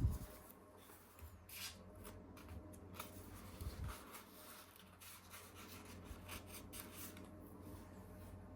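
Soft rubbing and handling noises with a few light, low knocks, about two seconds and four seconds in.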